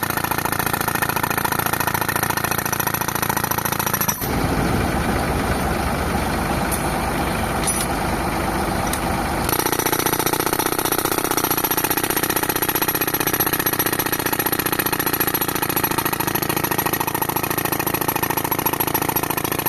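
Tractor-driven air compressor running with a pneumatic rock breaker hammering in rapid blows. The sound changes abruptly about four seconds in, turning heavier and lower, and changes back near ten seconds.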